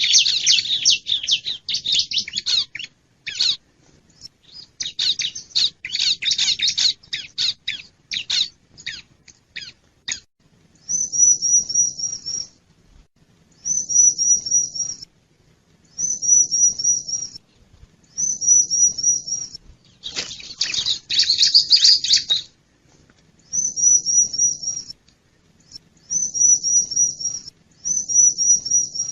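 Bar-winged prinia (ciblek) calling, a lure recording. It opens with about ten seconds of rapid, dense chattering chirps. Then come short high phrases of quick repeated notes every couple of seconds, broken by another burst of chattering about two-thirds of the way through.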